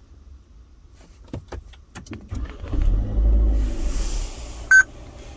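Nissan Serena C27's 2.0-litre four-cylinder petrol engine started by push button: a few clicks, then the starter cranks and the engine catches about two and a half seconds in, running up loudly before settling. A short beep follows near the end.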